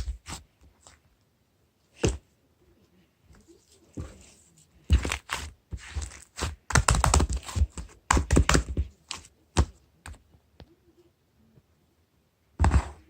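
Clusters of rapid clicking and tapping on a hard surface, in several bouts a second or two long with quiet gaps between.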